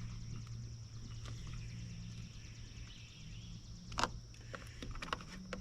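Clicks and taps from the plastic housing and screws of a string trimmer being handled during reassembly. There is one sharp click about four seconds in and a few lighter clicks near the end, over a steady low hum.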